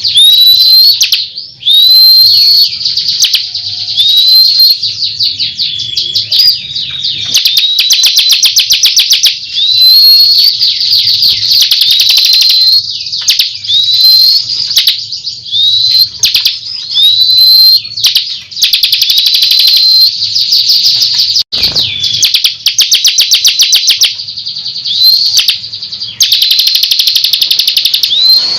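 Bar-winged prinia (ciblek) singing loudly and continuously. It repeats short rising whistled notes and breaks them up with rapid, rattling chattering trills. This is a lure (pancingan) song, played to prompt a reluctant caged ciblek to sing.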